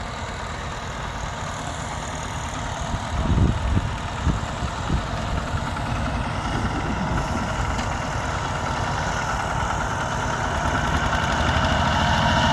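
Tractor engine running steadily, with a few low thumps about three to five seconds in, then growing louder toward the end.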